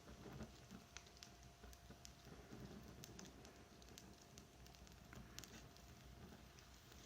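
Wood fire crackling faintly, with scattered sharp pops and snaps over a low, steady hiss.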